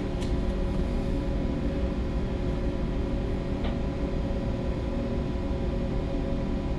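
Steady low drone of a bulk carrier's machinery heard on board, a deep rumble carrying several fixed humming tones, with a faint click a few seconds in.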